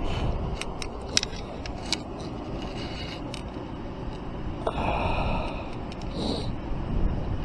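Wind rumbling on the microphone, with several sharp clicks in the first three seconds and a brief hiss about five seconds in.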